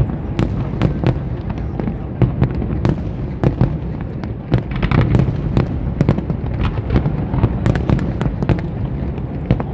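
Fireworks display: many sharp bangs and crackles of bursting aerial shells in quick, irregular succession over a continuous low rumble.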